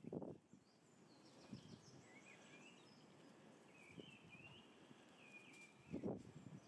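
Small birds chirping faintly in short, repeated calls. There are dull thumps at the start and again about six seconds in, the loudest moments.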